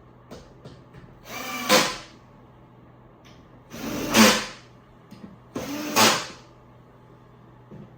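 Rasping scrapes from car bed frame parts being handled during assembly: three of them, about two seconds apart, each building up and ending sharply, with a few light clicks between.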